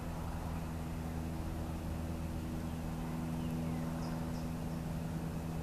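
Steady low drone of the Amtrak Auto Train running away into the distance, with a few faint bird chirps about four seconds in.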